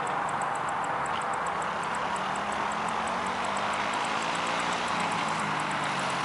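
Quad bike engine running steadily, its pitch shifting slightly from about two seconds in.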